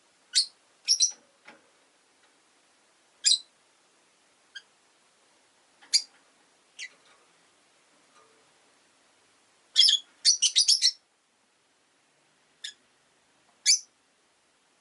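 Rosy-faced lovebirds giving short, sharp, high-pitched chirps at irregular intervals, with a quick run of about five chirps in a row around two-thirds of the way through.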